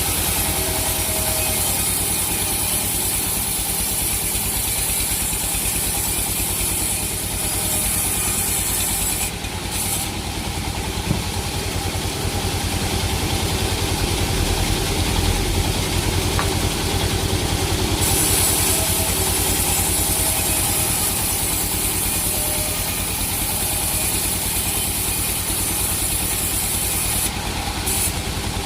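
Sawmill machinery with an engine running steadily throughout, a low even pulse. A high hiss comes and goes over the top of it, dropping out for several seconds in the middle.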